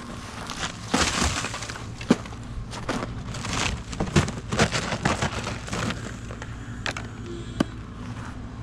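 Footsteps crunching and cracking through icy snow, an irregular run of crunches with a few sharp cracks.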